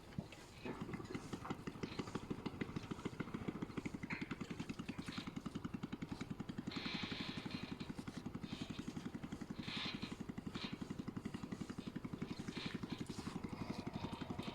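A small engine starts up under a second in and runs steadily with a fast, even beat, with some intermittent clatter over it.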